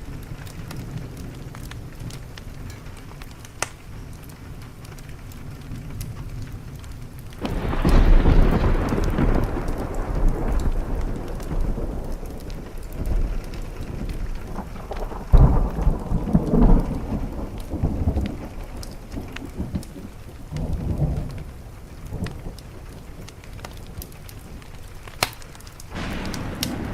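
Steady rain with thunder. A long, low rumble of thunder breaks in about seven seconds in, with heavier peals a little past the middle that slowly die away, and another roll building near the end.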